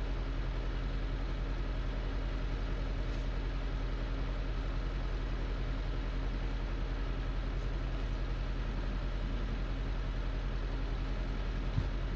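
Skid steer engine running at a steady, unchanging speed, with one short knock near the end.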